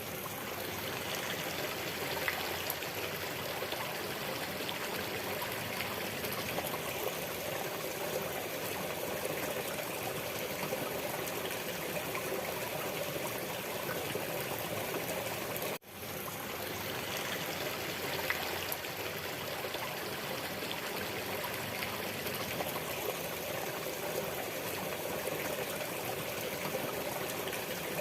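Waterfall: steady rushing and splashing of falling water. The sound cuts out for an instant about sixteen seconds in, then picks up again.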